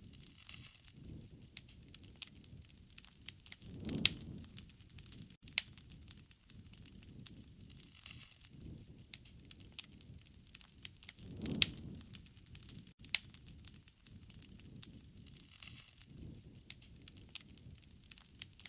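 Wood fire crackling, with frequent sharp pops and snaps. Twice, about four seconds in and again past the middle, it swells into a low rush, and another swell begins near the end.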